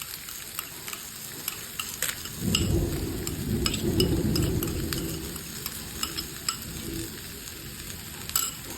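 Chopped chicken frying in a pan with a steady sizzle, and the clicks and scrapes of stirring. A couple of seconds in, a loud low rumble rises over it for about three seconds and then fades.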